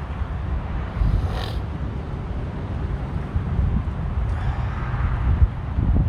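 Strong wind buffeting the microphone: a heavy, gusting low rumble, with a brief rustle about a second in.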